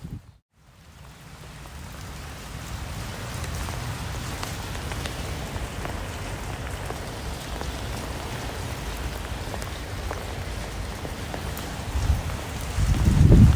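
Rain falling, fading in after a brief silent break, with scattered drop taps over a steady hiss. A louder low rumble builds near the end.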